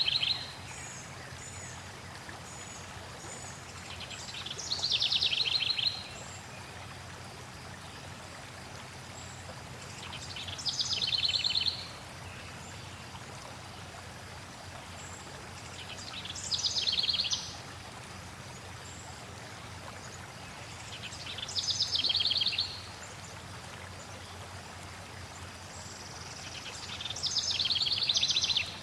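A songbird sings the same short, rapid trill again and again, about every five and a half seconds. Each trill is high-pitched, grows louder and stops abruptly. Under it runs a steady rush of flowing water.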